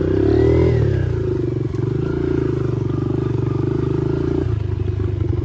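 Dirt bike engine running while being ridden: revs rise and fall in the first second, then hold steady, and the throttle eases off a little over four seconds in.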